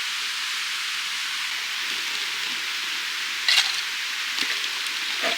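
Yakitori sizzling as it grills: a steady hiss with a few sharp pops, the loudest about three and a half seconds in.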